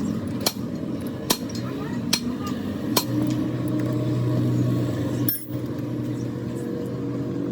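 Sharp metallic taps, roughly one every second, over a steady low mechanical hum.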